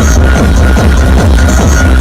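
Electronic dance music played very loud through a large outdoor sound system with 18-inch subwoofers, with a heavy, constant bass.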